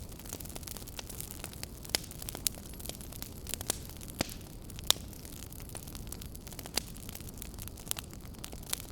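Wood fire in a fireplace crackling: irregular sharp pops and snaps, a few a second, over a low steady rumble of the burning.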